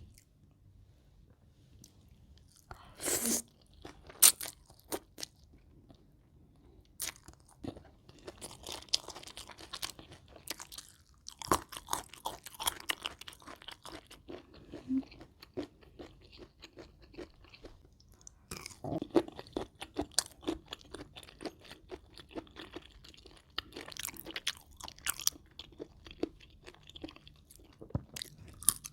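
Close-miked chewing of a spicy rice-noodle salad with raw shrimp and crisp raw vegetables: bouts of sharp crunching bites come in clusters, with quieter pauses between them. The loudest single crunch falls about four seconds in.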